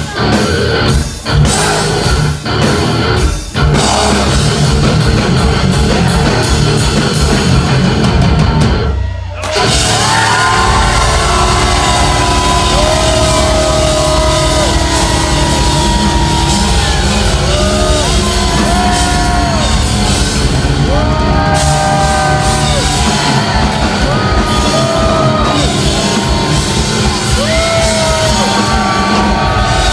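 Live instrumental heavy metal band, electric guitar to the fore: stop-start chord hits, a short break about nine seconds in, then a lead line of held notes that bend up and down over heavy bass and drums.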